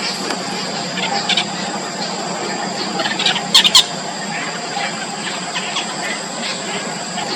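Yellow bittern nestlings giving short, high squeaky begging calls in scattered bursts, the loudest double call about three and a half seconds in.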